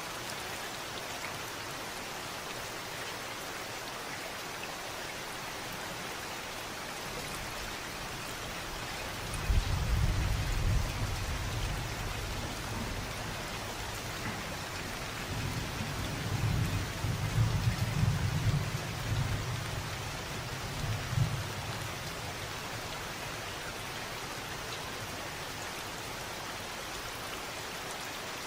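Steady rain falling, with a rumble of thunder that breaks in about a third of the way through, swells again and fades out well before the end.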